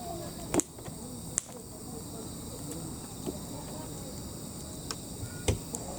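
Night insects, crickets, chirring steadily in several high-pitched bands, with a few sharp clicks or pops about half a second, a second and a half, and five and a half seconds in.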